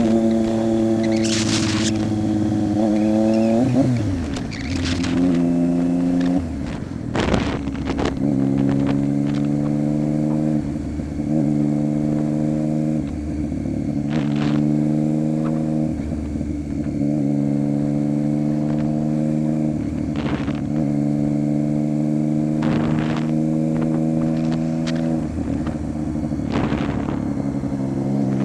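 A 2015 Triumph Street Triple 675's inline three-cylinder engine running through an unbaffled Coffman exhaust, holding a steady note in stretches of a second or three, broken again and again by short dips and brief sharp clicks.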